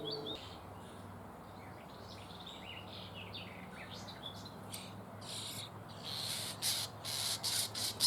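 Common starling chicks in a tree-hole nest calling to be fed, harsh rasping bursts that start about five seconds in and come quicker and louder as an adult arrives with food. Faint chirps of other birds come before.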